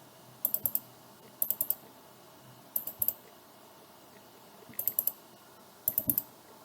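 Computer keyboard typing in five short bursts of a few keystrokes each, as AutoCAD commands and values are keyed in.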